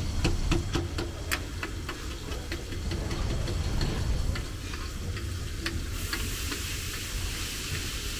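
Mutton liver (kaleji) frying on a flat iron tawa, sizzling, with a metal spatula clicking against the pan in quick strokes during the first couple of seconds. The sizzle grows louder about six seconds in, over a steady low rumble.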